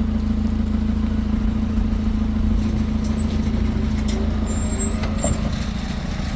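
Vehicle engine running steadily with a constant low hum and rumble. A few faint high chirps come in over it in the second half.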